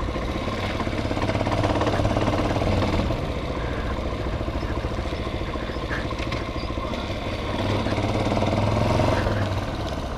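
Hawk 250 motorcycle's single-cylinder four-stroke engine running at low speed, getting a little louder twice as the throttle opens slightly.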